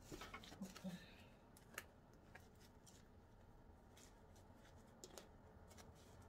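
Near silence with a few faint clicks and light rustles of hands handling the wig, most of them in the first second.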